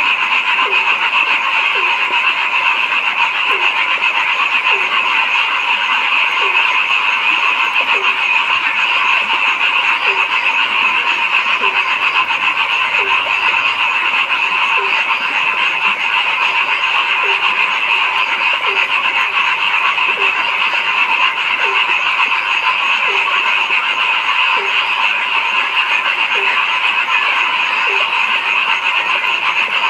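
A dense, steady chorus of frogs, with one deeper-voiced frog croaking about once a second over it.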